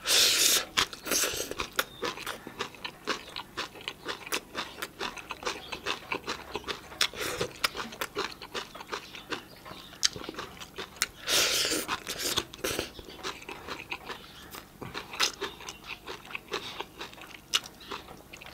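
Crunching and chewing of a mouthful of raw shredded red cabbage salad. There are loud bursts of crunching at the start and again about eleven seconds in, with smaller mouth clicks and chews in between.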